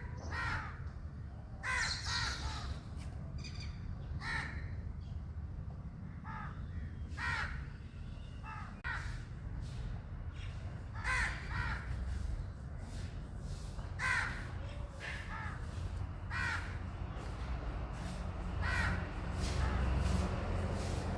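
Crow cawing repeatedly, short harsh calls coming every second or two, over a steady low rumble.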